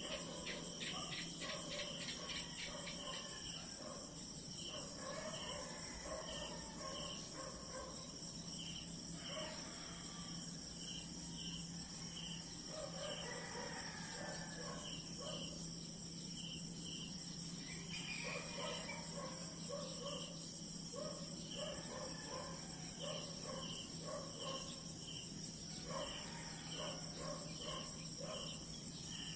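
Night insects, crickets among them: two steady high trills that never stop, with a short chirp repeated about twice a second. Spells of lower short calls come and go every few seconds.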